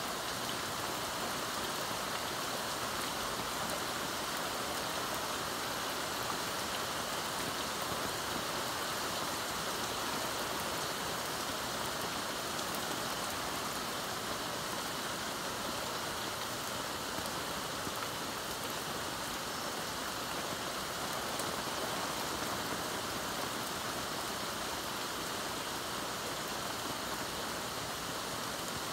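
Heavy thunderstorm rain falling steadily, an even hiss that does not let up.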